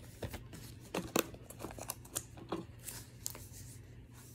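Movie disc cases and their wrapping being handled: a quick string of sharp clicks and crinkles, the loudest about a second in.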